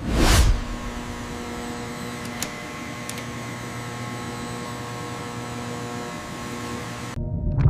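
Factory machinery humming steadily, opening with a short whoosh; it cuts off abruptly near the end.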